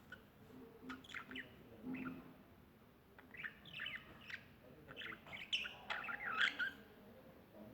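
Birds chirping in quick clusters of notes with short pauses between them; the loudest chirps come near the end.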